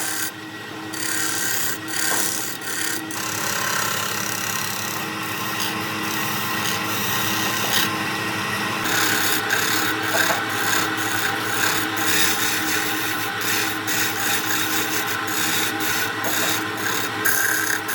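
Wood lathe running with a steady motor hum while something scrapes continuously against the spinning wood-and-epoxy workpiece. The scraping changes character about three seconds in and again about nine seconds in.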